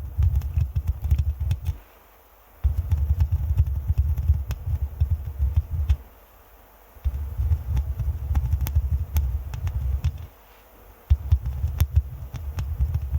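Microphone scratching: fingers or nails rubbing over the mic, giving a close, low rumbling scratch in bouts of a few seconds with short pauses between.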